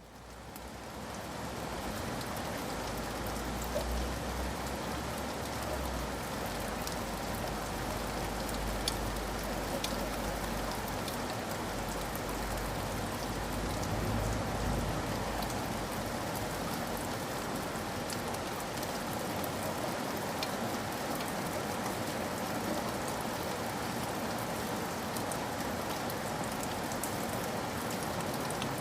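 Steady rain falling, with scattered sharp drops, fading in over the first couple of seconds. A low rumble runs underneath and dies away about two-thirds of the way through.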